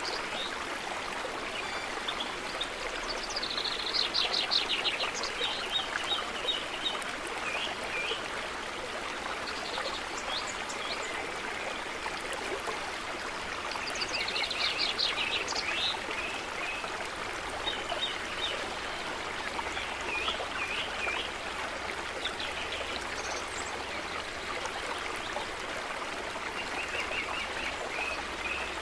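A stream running steadily, with birds singing in short repeated phrases above it several times.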